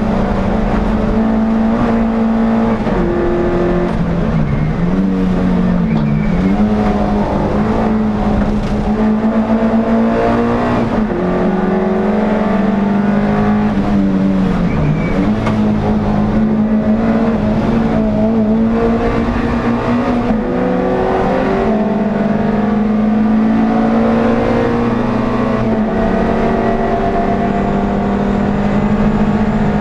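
Air-cooled NSU TT race car engine heard onboard at racing speed, revs repeatedly climbing and then dipping briefly at each lift or gear change.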